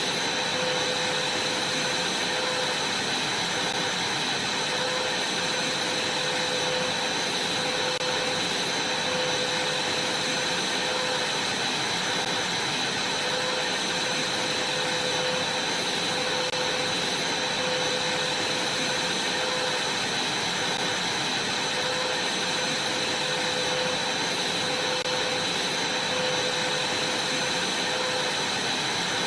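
Vacuum cleaner running steadily: a constant rush of air with a steady high whine from the motor.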